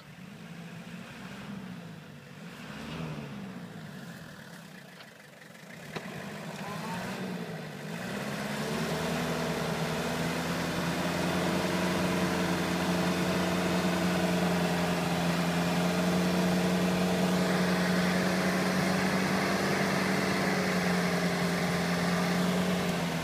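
Off-road vehicle's engine revving up and down unevenly, then held at steady high revs from about eight seconds in.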